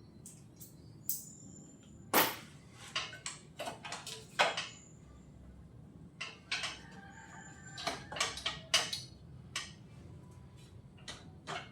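Metal tools and motorcycle fork parts clinking and knocking at irregular intervals, a few strikes ringing briefly like struck steel.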